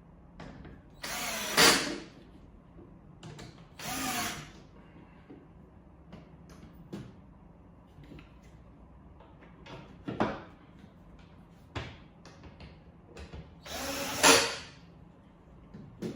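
Power drill/driver running in three short bursts, the loudest about a second in and near the end, with scattered clicks and knocks between.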